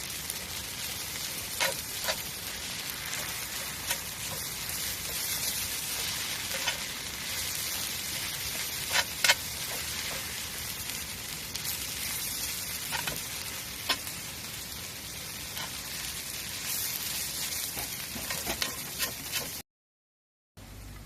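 Campfire burning: a steady hiss with scattered sharp crackles and pops from the burning wood. The sound cuts out completely for about a second near the end.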